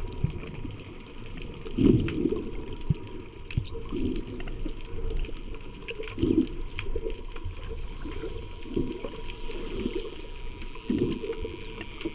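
Indo-Pacific bottlenose dolphins whistling underwater: short, high, arched whistles, a few about four seconds in and a quick run of five near the end. Low bubbly whooshes of water come and go every couple of seconds.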